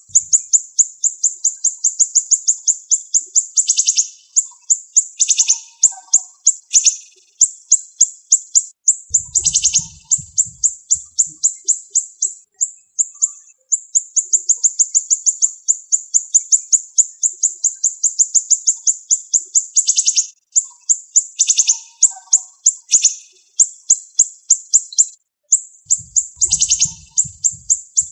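Siri-siri songbird singing a fast, unbroken run of sharp, high-pitched repeated notes, about five a second, with louder, harsher notes breaking in every few seconds.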